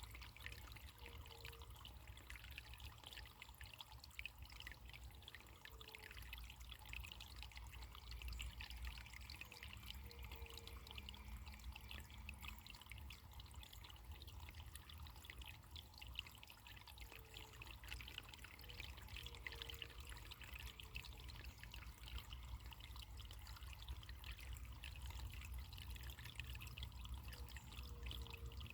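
Faint running water trickling steadily, with a low rumble beneath it.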